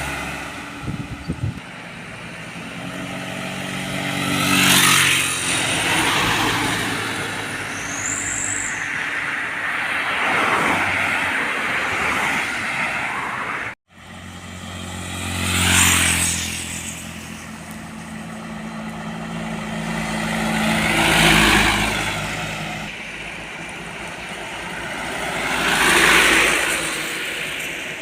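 Road traffic with trucks passing one after another: about four pass-bys, each engine drone and tyre noise swelling and fading. A brief high squeal comes about eight seconds in, and the sound drops out for an instant about halfway.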